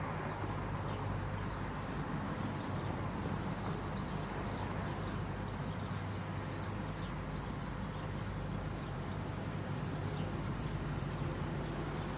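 Steady outdoor background rumble, like distant traffic, with faint short bird chirps scattered throughout.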